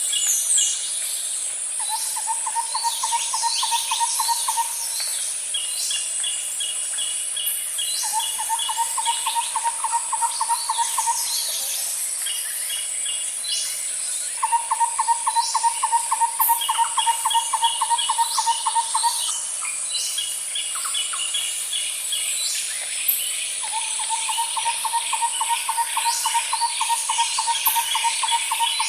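Nature ambience: a steady high insect chorus, with short chirping bird calls scattered over it. Every few seconds a lower, evenly pulsed trill comes in bouts of three to five seconds.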